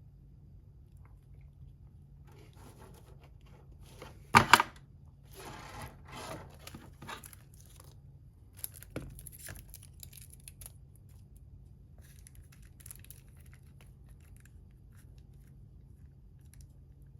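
Packaging being torn open and handled: one sharp, loud rip about four seconds in, then several bursts of crinkling rustle and a click, fading to faint rustles.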